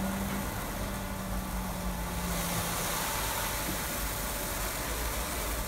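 Car engines idling with a steady low rumble and a hum that stops about three seconds in. A steady hiss from the automatic car wash sets in about two seconds in.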